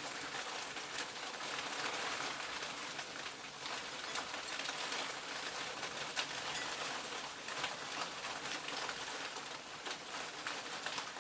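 Hail shower falling: a steady dense hiss with many small sharp ticks of hailstones striking.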